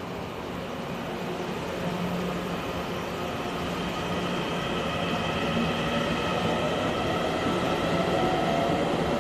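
A train running into the station, growing steadily louder as it approaches, with a rumble and a steady whine of several high tones over it.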